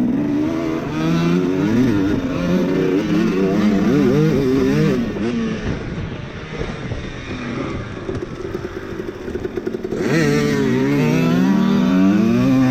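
Two-stroke dirt bike engine revving up and down as it is ridden. It is loud for the first few seconds, drops away in the middle, and comes back loud about ten seconds in.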